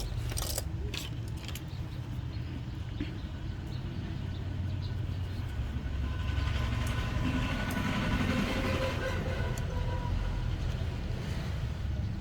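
Steady low rumble like road traffic, with a few small clicks near the start and a hiss that swells over the middle few seconds.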